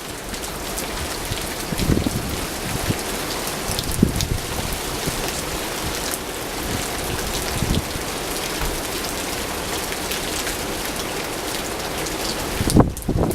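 Steady heavy rain falling and pattering on surfaces during a winter coastal storm shortly before the changeover to snow. A few low buffets of wind hit the microphone, the strongest near the end.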